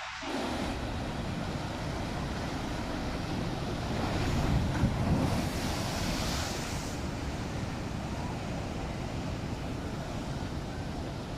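Rough sea: waves surging and breaking with wind buffeting the microphone, swelling to a louder, hissing wave from about four to seven seconds in.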